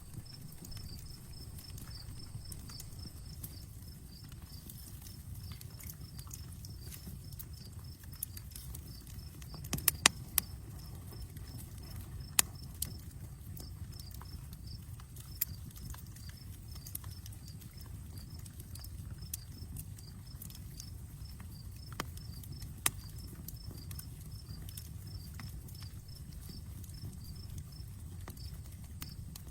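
Outdoor wood campfire crackling, with sharp pops scattered through, the loudest a quick cluster about ten seconds in, over a low steady rumble.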